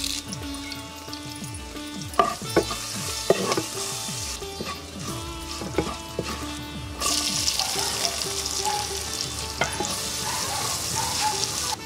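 Curry leaves and oil sizzling in a clay pot over a wood fire, with a wooden spoon stirring and knocking a few times against the pot. About seven seconds in the sizzle grows louder as chopped onions are stirred in.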